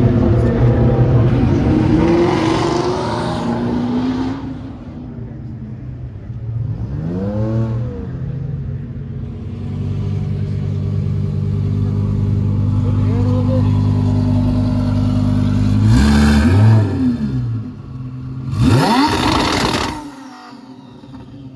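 Audi R8's 5.2-litre V10 engine running loud through its exhaust, idling between sharp throttle blips that rise and fall in pitch, three of them, then dropping away sharply near the end.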